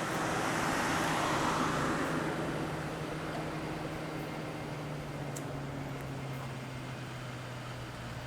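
A car passes by: its tyre and road noise swells about a second in, then slowly fades, over a steady low engine hum.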